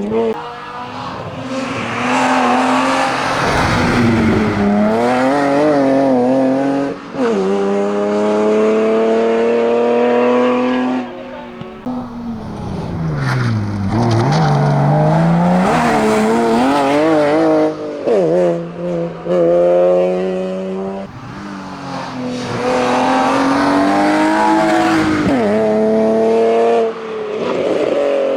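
Competition car at full throttle on a hillclimb, its engine revving up through the gears with a sharp break at each quick shift. Around the middle it drops right down for a corner, then pulls hard again.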